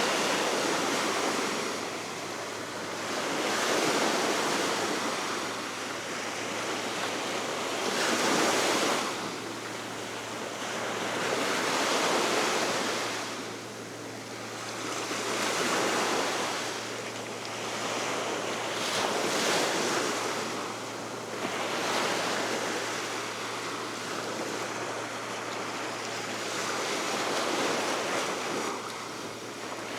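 Baltic Sea waves washing onto the shore in repeated surges, one about every four seconds, over steady wind that buffets the microphone.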